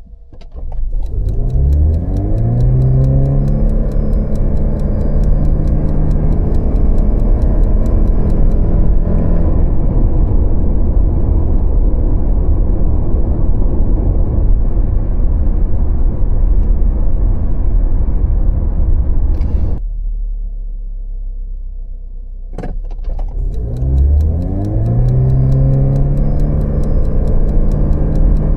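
Lexus IS 300h hybrid's 2.5-litre four-cylinder engine revving up quickly as the car accelerates hard from a standstill, then holding a steady high drone through the continuously variable transmission. About 20 seconds in it cuts off suddenly to a lower, quieter rumble with one sharp click, and near the end a second full-throttle launch begins with the same quick rise in pitch.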